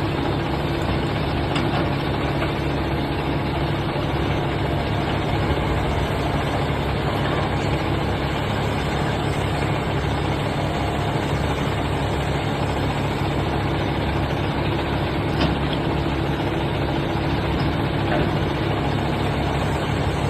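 Heavy engine of truck-loading equipment running steadily at an even pace, with no revving.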